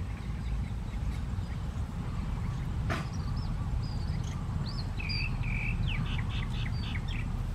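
Birds calling over a steady low rumble: a few short high chirps, then two held whistled notes and a quick run of about eight notes near the end. A single sharp click about three seconds in.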